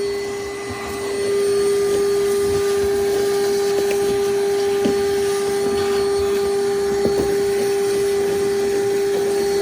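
Vacuum cleaner running steadily with a constant whine, sucking up debris from under a boat floor. It dips briefly in the first second, and there are a few faint ticks.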